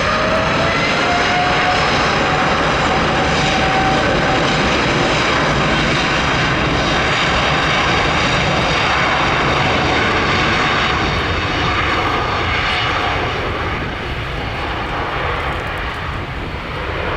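Twin-engine Boeing widebody jet airliner taking off under full thrust: a loud roar of jet engines with a whine that rises over the first couple of seconds and then holds steady. The roar stays strong for about eleven seconds, then slowly eases off.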